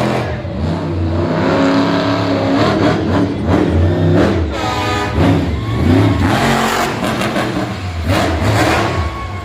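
Monster truck engine revving hard, its pitch climbing and falling again and again.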